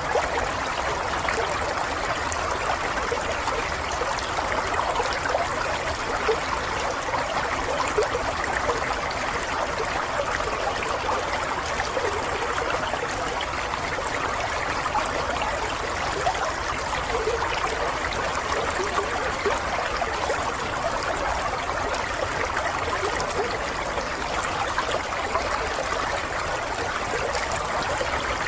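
Water running and trickling steadily, like a small stream flowing over stones, with fine bubbling and splashing.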